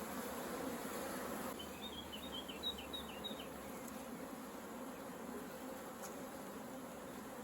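Honeybees buzzing steadily around an open hive, with a brief run of short high chirps about two seconds in.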